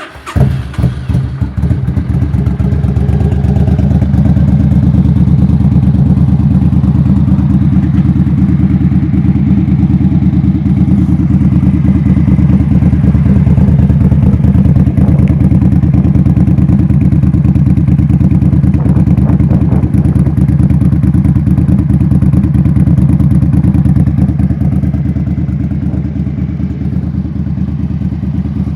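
Suzuki VL800 Volusia's V-twin through a Vance & Hines Pro Pipe exhaust with a wrapped stock baffle, starting up with a few uneven bursts, then idling steadily with a deep, loud exhaust note. It drops a little in level near the end.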